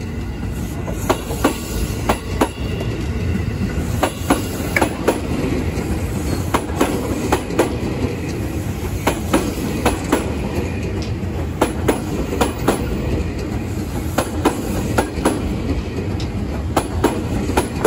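JR 205 series electric commuter train pulling out of the platform: a steady rumble of running gear with repeated clacks as the wheels cross the rail joints.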